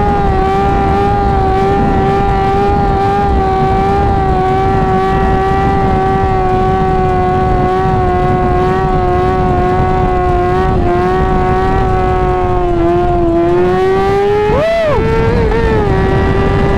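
2017 Yamaha R6's inline-four engine running at steady, fairly high revs while cruising, heard from on the bike. The pitch sags a little about three-quarters of the way in, then climbs again, with a brief rising-and-falling tone near the end.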